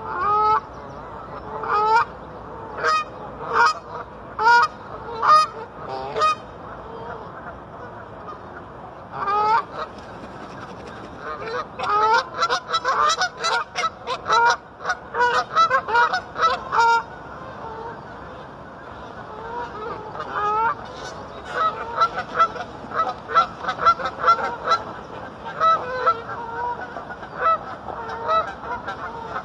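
Geese honking over and over. The honks come singly at first, then in a dense, overlapping flurry a little before the middle, and often again through the last third.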